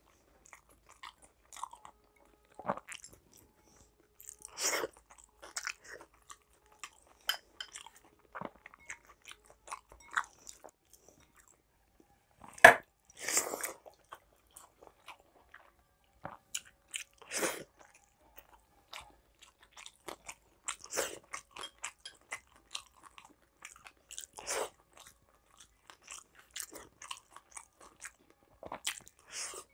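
Close-miked eating: crunching and chewing fried side dishes such as fried potato and aubergine, in irregular clusters of short crackles with pauses between bites. The loudest crunches come about 13 seconds in.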